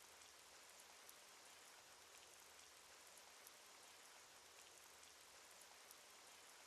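Cartoon rain sound effect: soft, steady rain with faint scattered droplet ticks, low in level.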